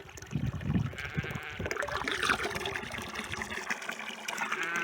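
Water running from a hose, with a sheep bleating with a wavering voice near the end.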